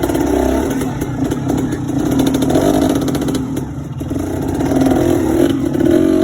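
Dirt bike engine revving hard and unevenly, its pitch rising and falling in repeated surges, the way it goes when a rider works the throttle over loose, low-traction trail.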